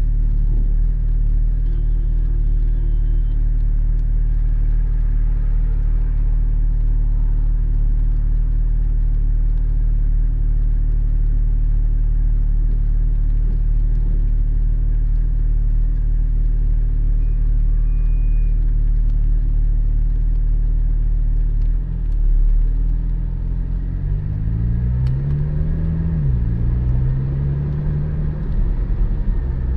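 Porsche 718 Spyder's flat-six engine and road noise cruising steadily. About two-thirds of the way in, the engine pulls harder and its pitch rises, drops sharply at a gear change, then rises again.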